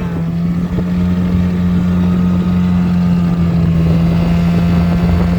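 7.5 hp Mercury outboard motor running steadily under way. Its pitch eases down slightly right at the start and then holds even, with water and wind noise around it.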